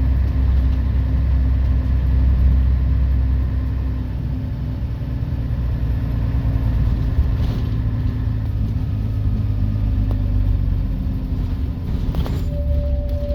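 Scania CN113CLL city bus's DSC 11.71 diesel engine running with a heavy low rumble that eases about four seconds in. Near the end there is a click, then a steady high tone starts.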